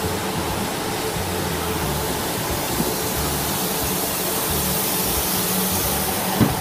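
South West Trains Class 444 electric multiple unit running into the station platform: a steady rumble and hiss that builds as the train draws near, over a low drone, with a single sharp knock near the end.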